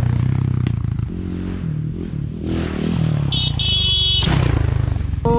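Dirt bike engine running, its pitch rising and falling with the throttle. A brief high-pitched tone sounds a little past the middle.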